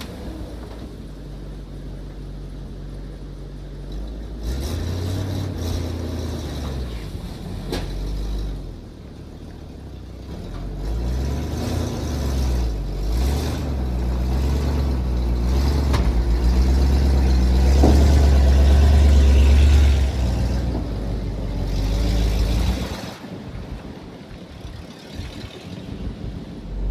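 1972 Chevrolet C50 dump truck's engine running, growing louder through the middle as it works harder and drops off sharply about two-thirds of the way in, staying low near the end.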